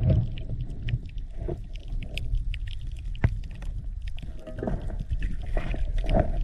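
A swimmer moving in the sea, heard through a waterproofed camera: muffled water sloshing and a low rumble, with scattered sharp clicks and a few short muffled groaning sounds from the swimmer.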